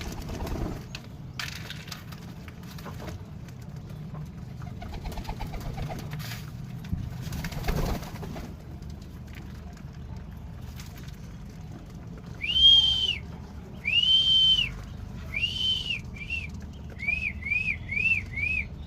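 Domestic pigeons cooing low. About two-thirds in, a run of high whistled notes that each rise and fall: three longer ones, then four or five short quick ones.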